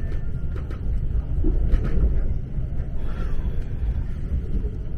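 Local train running, heard inside the carriage: a steady low rumble of wheels on the rails, with a few faint clicks.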